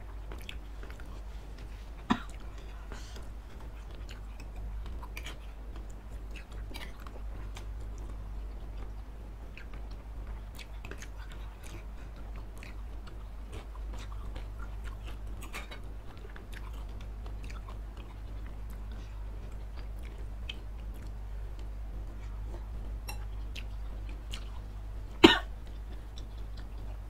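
Close-miked chewing and biting of wet fried noodles and satay, with many small mouth clicks over a steady low hum. There is a sharp knock about two seconds in and a louder one near the end.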